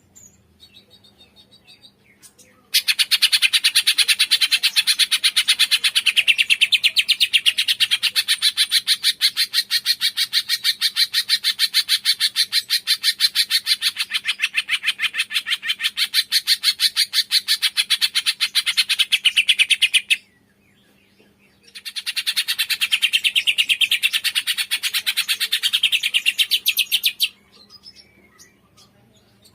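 Cungkok bird song: a loud, very rapid buzzing trill held for about seventeen seconds, breaking off, then taken up again for about five seconds. Faint chirps come before and after.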